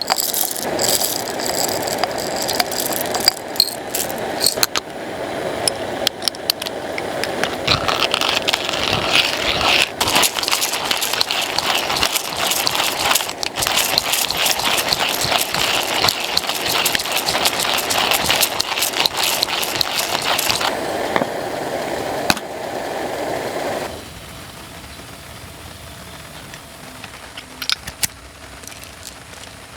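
Hand coffee grinder crunching beans, a dense rapid ratcheting crackle that stops abruptly about 24 seconds in, followed by a few scattered clicks.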